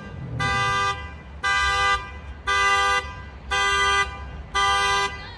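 A car horn sounds in five regular blasts of about half a second each, roughly one a second, like a car alarm going off, over a low engine rumble.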